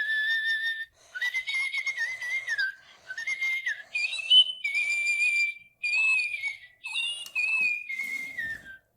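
Little Live Pets electronic toy bird tweeting a whistled song: about seven short phrases with short gaps between them, each sliding and stepping in pitch.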